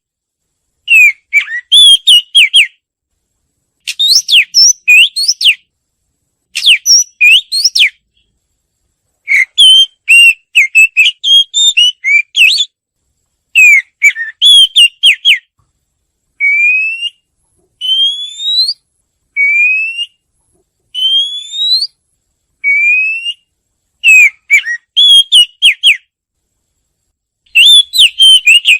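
Oriental magpie-robin singing: short phrases of clear, varied whistled notes with brief pauses between them. Through the middle of the song it gives a run of single upward-sliding whistles, one about every second and a half.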